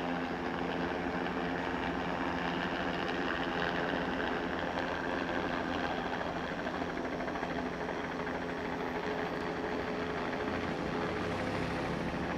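Steady, unbroken engine drone with a low hum of several tones.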